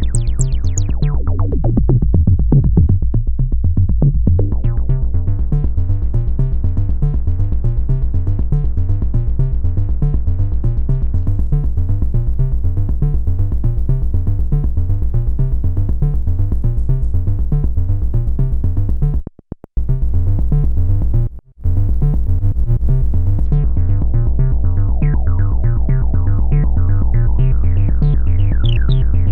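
Korg monologue analog monophonic synthesizer playing a factory preset: a fast, evenly repeating sequenced bass line. The sound cuts out twice briefly about two-thirds of the way through, and its upper tones brighten and sweep near the start and again in the last few seconds.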